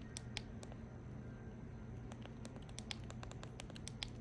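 Typing on a keyboard: light, irregular key clicks, a few a second, over a steady low hum.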